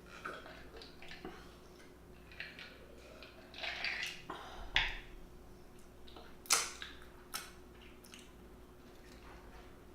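Close-up eating sounds of seafood being eaten by hand: wet chewing and mouth sounds with scattered sharp clicks of shells and utensils, the loudest clicks coming about halfway through.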